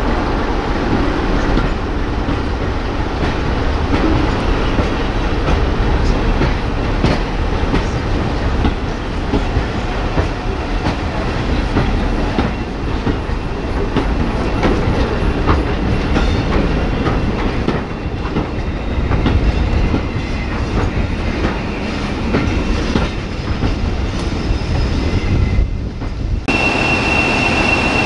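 Passenger coaches rolling past, a steady rumble of wheels on rail with irregular clicks as they run over the rail joints. About two seconds before the end the sound cuts abruptly to a steady high-pitched whine.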